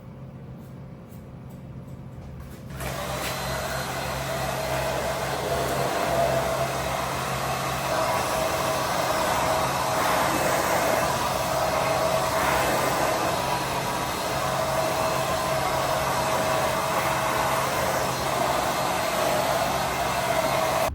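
Hair dryer switched on about three seconds in, then running steadily with a constant motor hum as hair is blow-dried.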